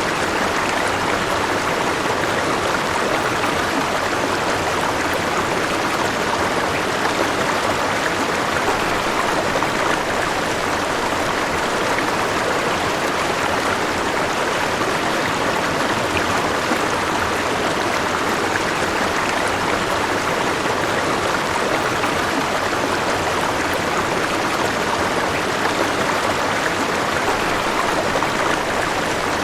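River water flowing steadily over rocks, an even rushing sound that does not change.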